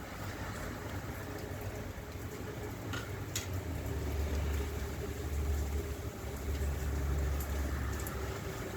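A motor vehicle's engine running with a steady low rumble that grows louder a few seconds in.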